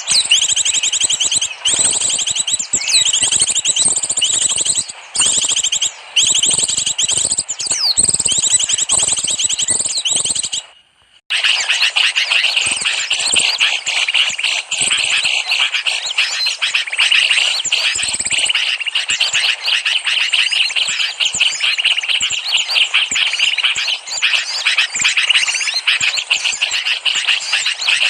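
Dense, rapid chirping of many small birds, a lure call recording for attracting small birds. It breaks off for about half a second near the eleven-second mark, then resumes as a busier chatter with its main pitch somewhat lower.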